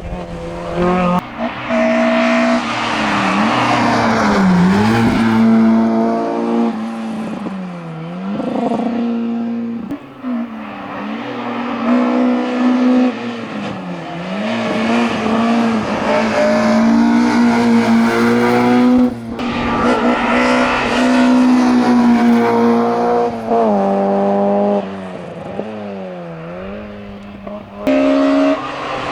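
A racing car's engine revving hard up a hillclimb course, climbing in pitch and then dropping sharply again and again as the driver shifts gears and lifts for corners. The sound changes abruptly a few times, shortly after the start, about two-thirds through and near the end.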